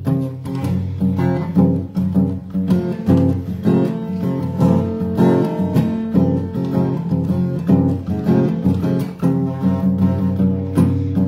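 Instrumental acoustic guitar music: plucked and strummed guitar notes in a steady rhythm, with no vocals.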